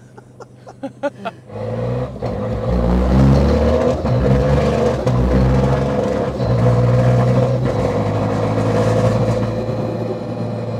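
Tuned Toyota GR Yaris turbocharged three-cylinder engine, heard from inside the cabin, accelerating hard after a quiet first second and a half. Its pitch climbs, drops back at a quick sequential-gearbox upshift and climbs again.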